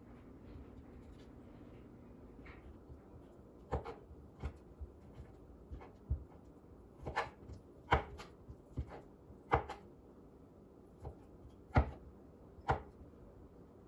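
Knife chopping rotisserie chicken into chunks on a cutting board, in irregular sharp taps that begin a few seconds in.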